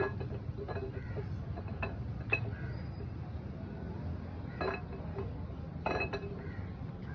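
Irregular metallic clinks and taps of steel tools and engine parts as a tractor engine's camshaft is fitted, several of them ringing briefly, over a steady low hum.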